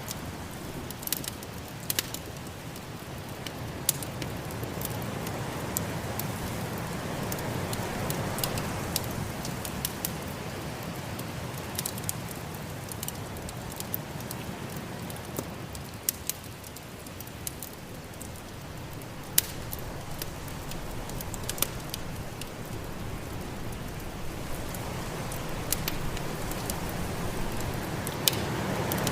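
Wood fire in a fireplace crackling with sharp, irregular pops over a steady rushing noise from a snowstorm that swells and eases.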